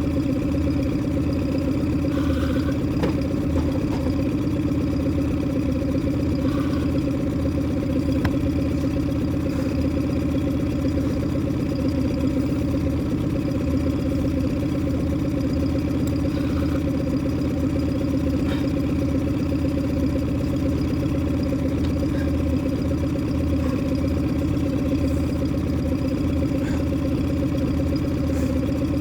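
Boat engine idling, a steady hum that does not change.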